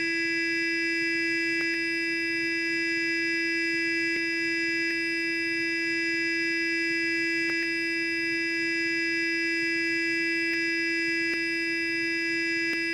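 Sonic electric toothbrush running, giving a steady, unbroken buzzing hum with faint clicks every few seconds.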